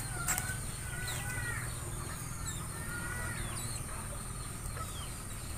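Birds chirping faintly in short calls over a steady low background hum.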